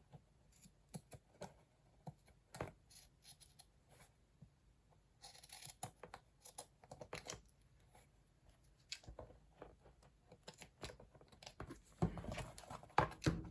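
Scissors trimming paper: scattered small snips and clicks, with a short rustle of paper about five seconds in and louder handling of the cover near the end.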